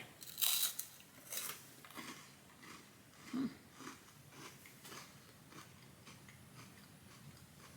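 A crispy wafer bar being bitten and chewed with the mouth close to the microphone: a run of short crunches, closer together at first and growing sparser.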